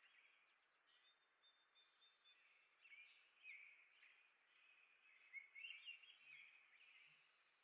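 Small birds chirping faintly, with a busy run of short, squeaky calls that grows louder a little past the middle, over a soft background hiss.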